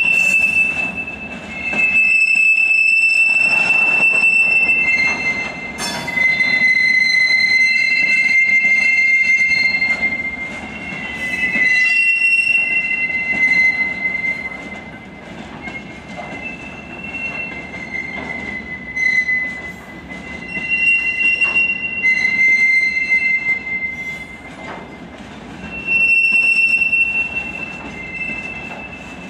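Wheels of a long freight train of open gondola wagons squealing as it rolls past: a shrill, high squeal that switches between two pitches and swells and fades every few seconds, over the wagons' steady rumble.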